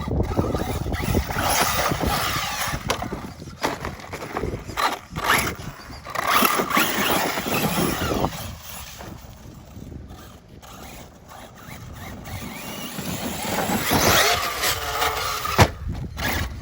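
6S brushless RC car driving on loose dirt: motor whine and tyres scrabbling, rising and falling with the throttle. Louder runs about six seconds in and again near the end, with a quieter stretch between.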